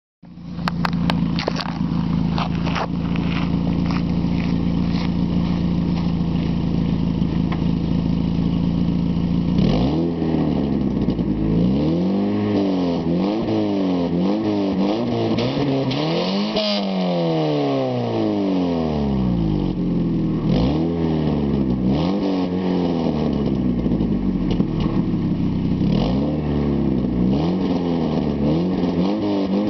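1995 Dodge Neon's SOHC 2.0-litre four-cylinder engine through a DOHC-model muffler, with exhaust leaks. It idles steadily, then from about ten seconds in is revved up and let fall back again and again, roughly one rev every two seconds.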